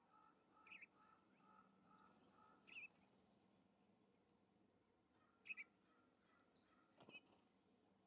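Faint wild songbird calls: short, high two-note chirps heard four times, over a softer series of evenly repeated lower notes from another bird, about two a second. A single sharp knock comes about seven seconds in.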